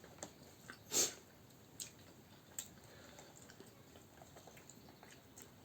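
Quiet eating sounds at a meal: soft chewing with a few light clicks, the loudest about a second in.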